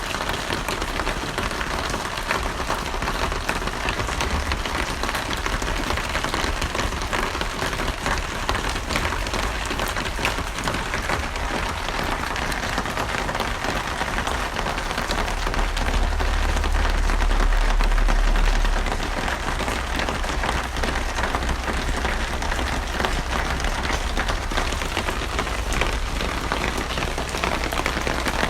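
Steady, dense rain falling with an even hiss. A deep low rumble swells for a few seconds past the middle, then fades back.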